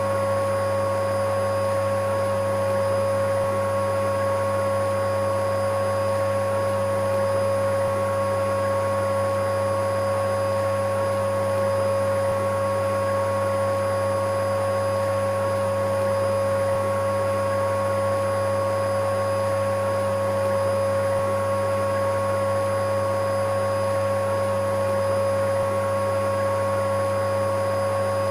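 Electric vacuum cleaner running steadily: a constant drone with a steady high whine over a low hum, unchanging in level and pitch.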